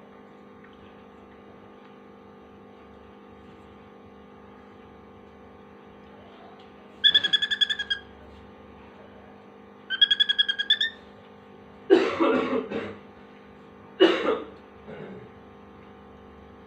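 Cockatiel mimicking a mobile phone alarm: two short bursts of fast, pulsing beeps about three seconds apart, followed by two harsher, raspier calls.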